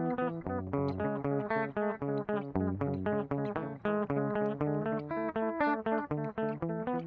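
Guitar played through an MXR 113 digital delay pedal: a fast, continuous run of picked notes, several a second.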